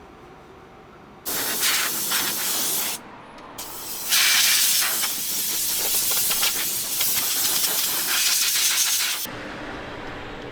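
Loud hissing of a high-pressure jet in two bursts: one of about two seconds, then after a brief pause a longer one of about five seconds that cuts off abruptly.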